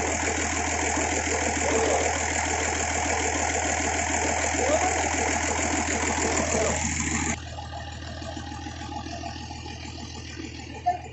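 An engine running steadily on test, with fast even firing pulses, then stopping abruptly about seven seconds in, leaving a faint low hum.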